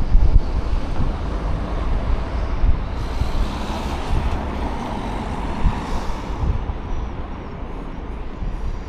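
Road traffic heard from a moving e-bike, with wind rumbling on the microphone. A louder hiss swells about three seconds in and fades away by about six and a half seconds.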